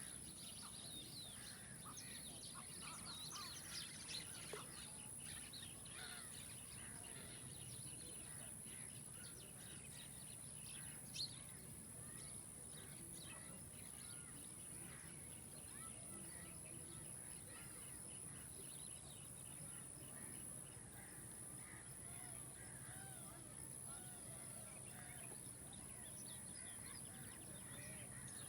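Faint chorus of many small birds chirping, short high chirps that are densest in the first few seconds and thin out later, with one sharper, louder call about eleven seconds in. A steady high-pitched whine runs underneath.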